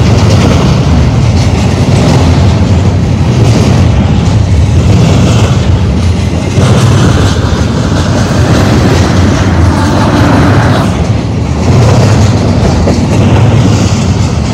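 Double-stack intermodal freight well cars rolling past close by: a loud, continuous rumble and clatter of steel wheels on the rail. The level shifts slightly a few times as cars go by.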